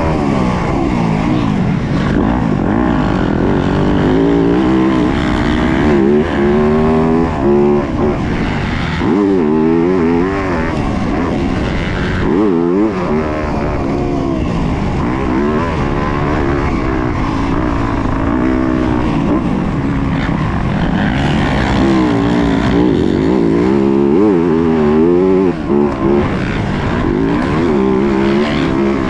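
Yamaha YZ250F single-cylinder four-stroke motocross engine ridden hard, revving up and falling away again and again through throttle and gear changes, with a few short throttle cuts.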